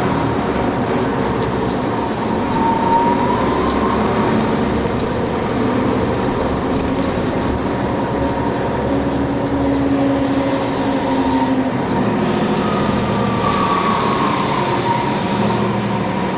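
NovaBus TL-40102A low-floor city bus on the move, heard from inside the cabin: steady engine and drivetrain noise, with a whine that rises in pitch twice as the bus gathers speed.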